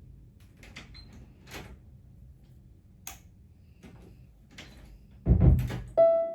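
A few light clicks and knocks spread over several seconds, then a louder thump about five seconds in. Background music starts just before the end.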